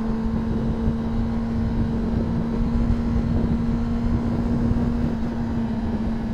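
Honda CBR600RR's inline-four engine running at a steady cruise, holding one constant note, under a heavy low rumble of wind noise on the microphone.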